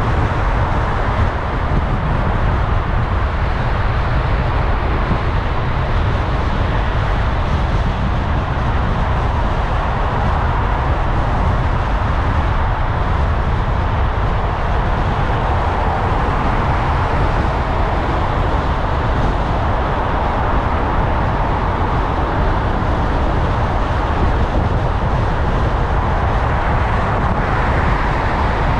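A car driving along, with steady road and engine noise: a deep rumble and tyre hiss, level throughout with no sudden sounds.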